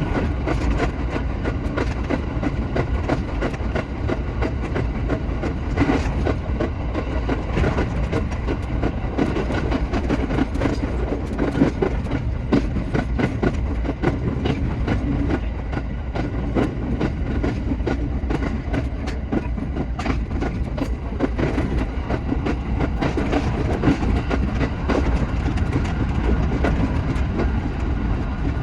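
Shinano Railway SR1 series electric train running along the line: a continuous low rumble with a run of rapid, irregular clicks as the wheels pass over rail joints.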